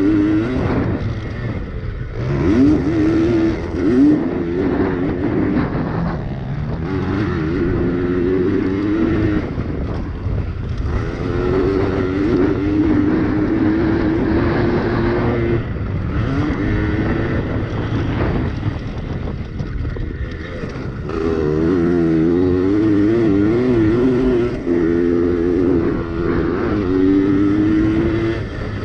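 Yamaha PW80 two-stroke pit bike engines revving hard, their pitch rising and falling over and over, with short dips where the throttle is eased off.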